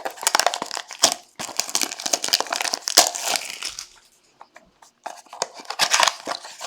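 Wrapping on a trading card pack or box crinkling and tearing as it is opened by hand, in dense rustling bursts with a short pause about four seconds in.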